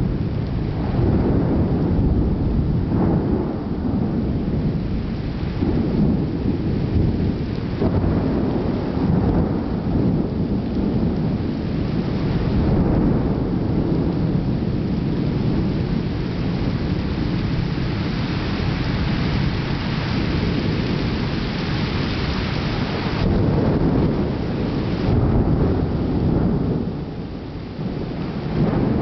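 Thunder rumbling almost without pause over steady rain during a severe thunderstorm, swelling and easing again and again. The rain hiss grows heavier for about ten seconds from around the middle.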